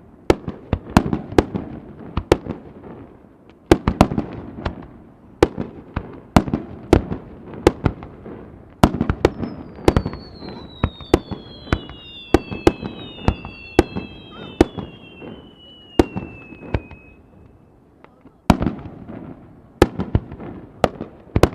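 Fireworks display: a rapid, irregular series of sharp bangs from bursting shells, each trailed by a rumble. From about nine to seventeen seconds in, several falling whistles overlap the bangs, and there is a short lull just before the bangs pick up again.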